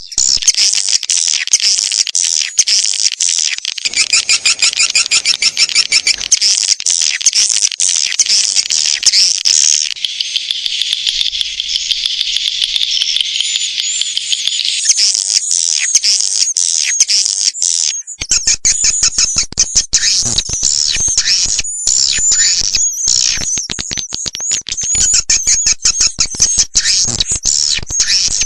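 Swiftlet call track used as a lure for wild swiftlets: a dense, continuous mass of high chirps, twitters and trills. Partway through it shifts to a sharper run of clicking, down-slurred chirps.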